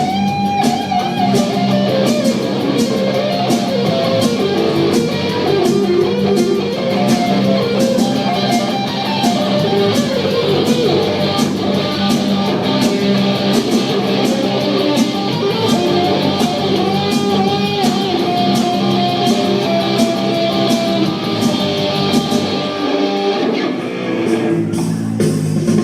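Live band playing guitar music: a melodic guitar line over strummed guitar and bass, with a steady drum beat. The drums drop out for a moment near the end.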